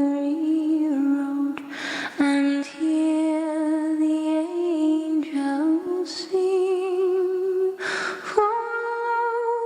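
A single voice carrying a slow hymn melody unaccompanied, with vibrato on the held notes. Breaths are audible about two seconds in and again near the end.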